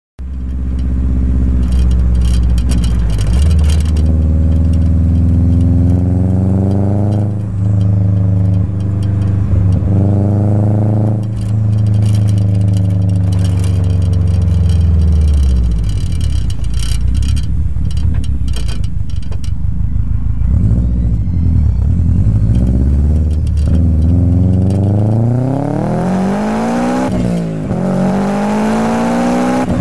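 Exhaust note of a Subaru Impreza WRX STI Version IV (GC8), a turbocharged flat-four, with the engine revved repeatedly. The pitch climbs and falls several times, settles to a low, steady note in the middle, then is revved up again twice near the end.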